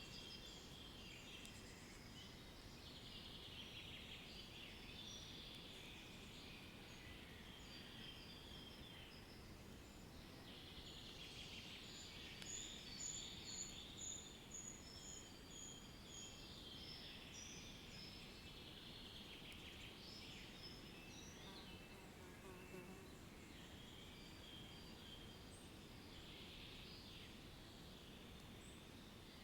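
Faint chorus of wild birds chirping and trilling over a low steady background hiss, with a run of about eight evenly spaced high notes in the middle.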